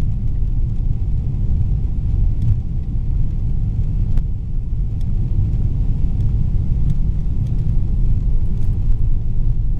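Cabin noise inside a Boeing 777-300ER on the ground after landing: a steady, loud, low rumble from the engines and the wheels on the runway.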